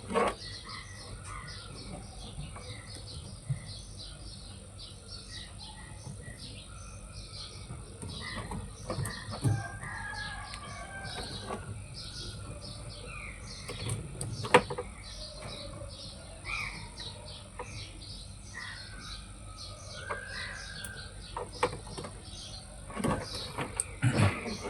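Small birds chirping repeatedly over a steady high-pitched drone, with a few sharp knocks; the loudest knock comes about fifteen seconds in.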